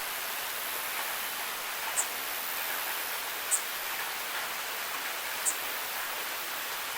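Steady rain falling, an even hiss, with three short, sharp high-pitched ticks spaced roughly a second and a half to two seconds apart.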